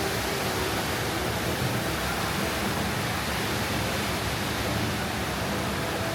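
Steady rush of falling water from the HSBC Rain Vortex, a large indoor waterfall.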